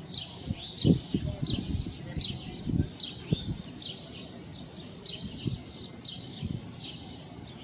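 A bird calling: a short, high, falling chirp repeated about twice a second. Irregular low thumps run under it for the first few seconds.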